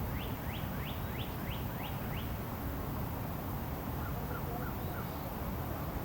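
A wild bird calling: a quick run of about seven high sweeping notes, roughly three a second, then a few fainter, lower notes about four seconds in. Steady low outdoor background noise runs underneath.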